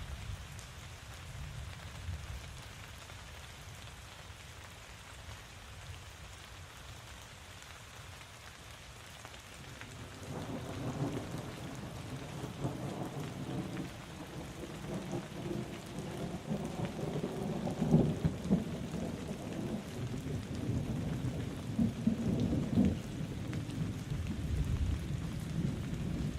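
Steady rain falling, with thunder rumbling in about ten seconds in and building, its loudest rolls past the middle and again near the end.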